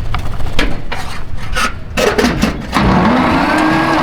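A few clicks and scrapes, then about two seconds in the 1948 Dodge truck's 218 inline-six is cranked by its 6-volt starter. The starter whine sags and recovers in a steady rhythm as the engine turns over without firing, since it has no spark.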